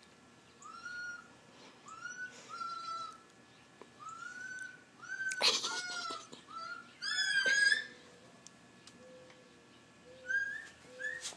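Pet birds calling: a run of short arched whistles about once a second, with two louder, harsher squawks around the middle and short rising whistles near the end.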